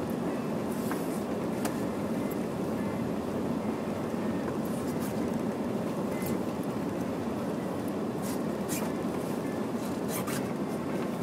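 Honda Prelude on studded snow tyres driving through deep snow: a steady rumble of engine and tyre noise, with a few faint clicks scattered through it.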